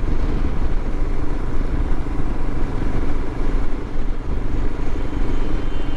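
Royal Enfield Himalayan's single-cylinder engine running steadily while the motorcycle is ridden along the road, with a dense low rumble and wind and road noise over it.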